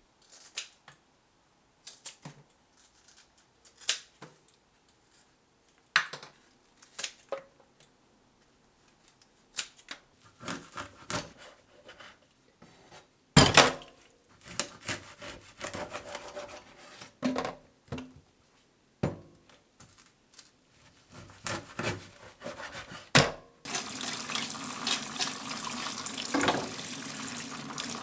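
Scattered clinks and knocks of kitchen handling, then, near the end, water starts running steadily from a tap.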